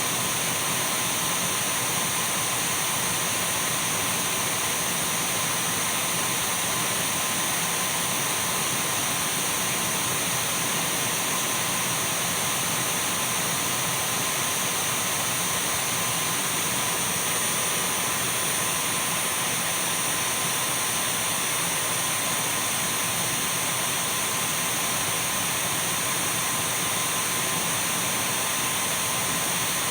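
Dyson V12 cordless stick vacuum cleaner running steadily, a constant rushing hiss of airflow with a thin steady whine from its motor.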